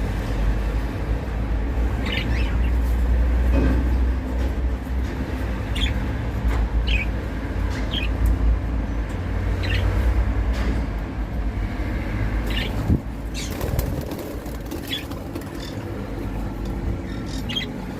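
Budgerigars giving short chirps, scattered about once a second, over a steady low rumble that eases in the second half.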